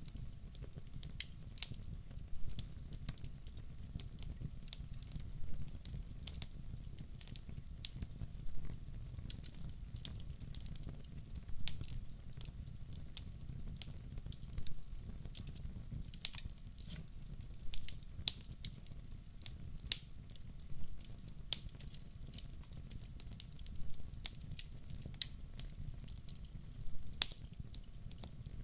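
Firewood burning in a fireplace: irregular sharp crackles and pops over a steady low rumble of the fire.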